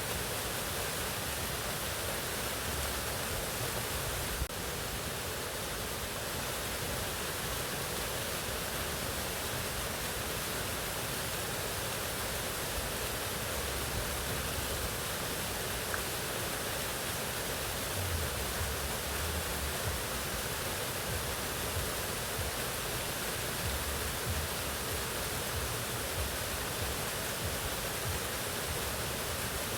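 Waterfall rushing: a steady, even roar of falling water, with one brief click about four and a half seconds in.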